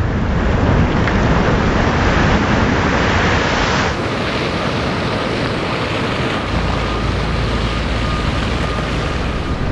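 Storm surf and strong wind: a continuous roar of breaking waves, with heavy wind rumble buffeting the microphone. The sound changes abruptly about four seconds in.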